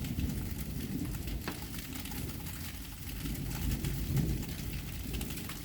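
Sleet falling, many small pellets ticking steadily, over a low continuous rumble.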